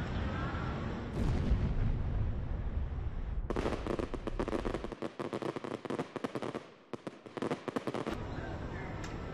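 Fireworks crackling and popping in a rapid, irregular series for about four and a half seconds, set off in the exploding Tesla.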